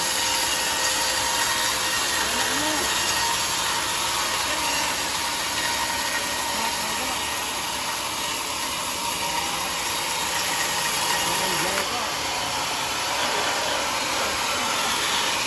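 Homemade sawmill running, a steady, even noise with no breaks.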